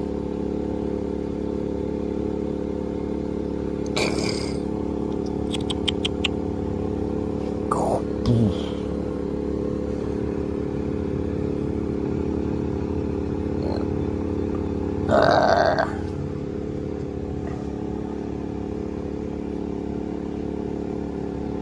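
A steady, unchanging motor drone runs throughout. A few short, louder sounds come on top of it: one about 4 seconds in, a quick rising-and-falling squeal about 8 seconds in, and the loudest, about a second long, around 15 seconds in.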